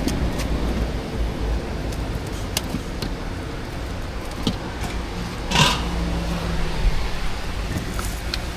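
Steady low rumble of street background noise with a few sharp clicks and one louder clatter a little past halfway.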